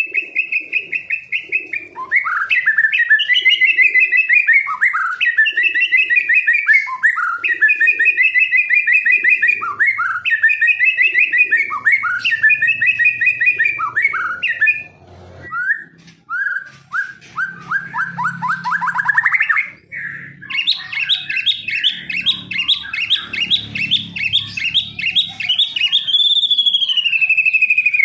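A songbird singing in long runs of fast repeated notes, with a short break near the middle. A rising trill follows, then another rapid chattering run.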